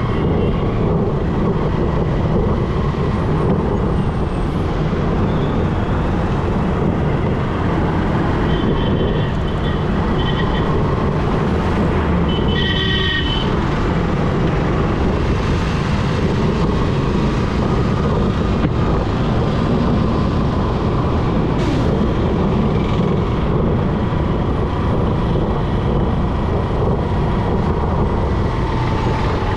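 Steady road and traffic noise from a moving motorbike, with vehicles passing. A horn sounds briefly about halfway through.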